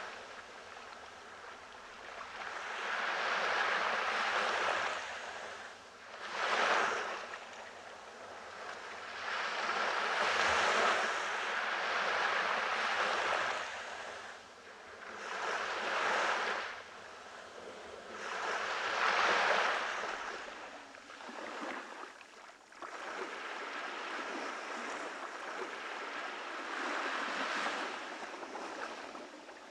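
Ocean waves breaking and washing up a tropical beach, swelling and falling every three to four seconds, then a steadier wash near the end.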